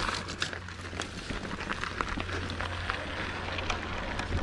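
Mountain bike riding down a dirt trail: tyres crackling over dirt and stones with many quick rattling clicks from the bike, over a steady low rumble.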